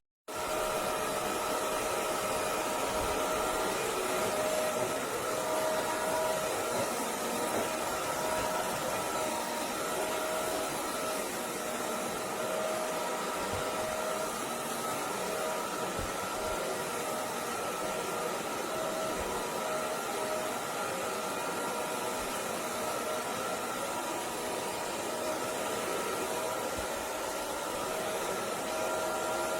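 Roborock Dyad Pro cordless wet-dry vacuum running steadily, a motor whine holding a few constant pitches over a rushing air noise; it comes on suddenly right at the start.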